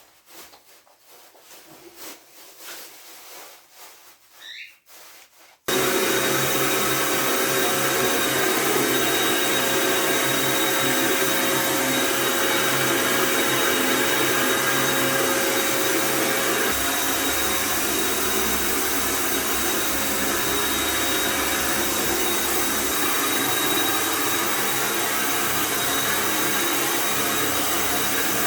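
Quiet scattered clicks, then an electric motor-driven machine cuts in abruptly about five seconds in and runs at a steady, even level with a constant whine.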